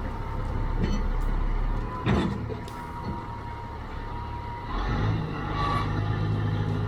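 Heavy diesel equipment engine running steadily under a faint steady whine. A short knock comes about two seconds in, and near five seconds the whine stops and the engine's low note picks up and grows louder.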